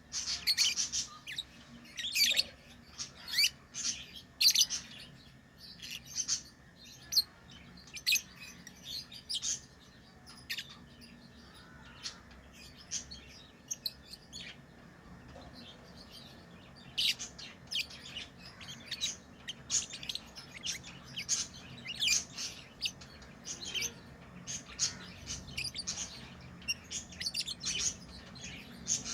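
Pet lovebirds chirping: many short, high-pitched chirps in quick succession, thinning out for a few seconds midway and then busy again, over a faint steady low hum.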